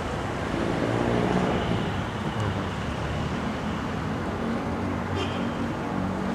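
Road traffic on a busy highway: a steady rumble of passing vehicle engines and tyres, swelling a little about a second in.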